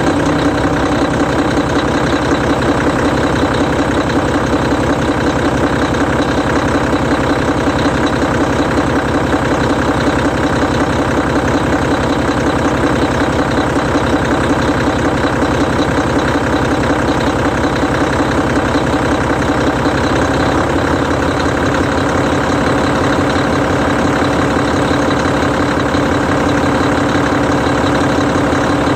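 Hino E13C 12.9-litre inline-six diesel engine of a Hino Selega tour bus idling steadily, with a slight change in its low note about two-thirds of the way through.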